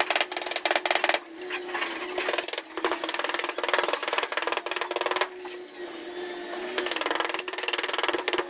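A small motorized tool running in several bursts, each a fast even rattle, over a steady hum.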